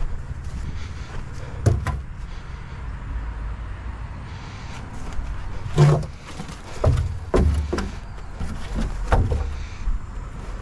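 A handful of separate knocks and clunks over a low steady rumble; the loudest comes about six seconds in.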